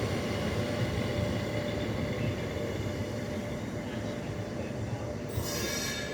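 A push-pull train hauled by an ÖBB class 1144 electric locomotive running along the track, a steady rail rumble that slowly fades. About five seconds in, a brief high-pitched sound cuts in over it.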